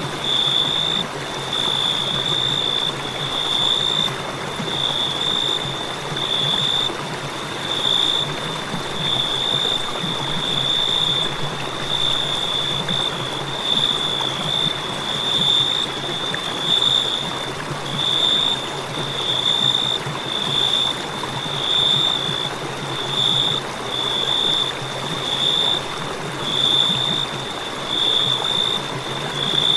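Crickets chirping in a continuous high trill that swells and eases about once a second.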